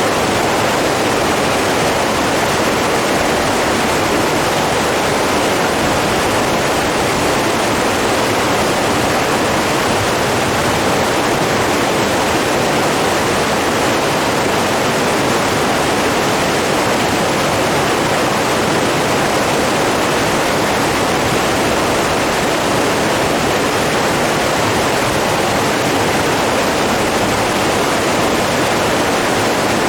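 Rushing water running steadily, an even, unbroken roar of a stream or falls with no change in loudness.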